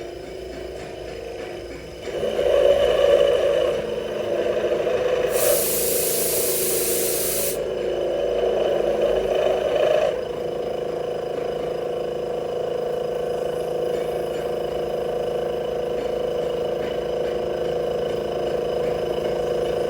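CNC milling machine rough-cutting metal, a steady machine hum with cutting noise that grows louder about two seconds in and eases back near the halfway point. A loud hiss cuts in for about two seconds, a little over five seconds in.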